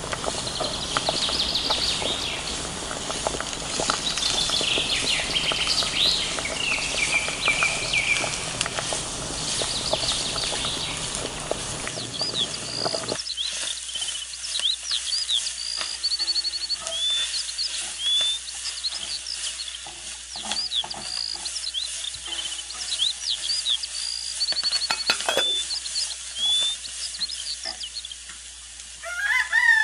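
Small birds chirping and twittering over a crackling hiss, which cuts off abruptly about halfway through. The chirps carry on alone after that, and a rooster starts to crow right at the end.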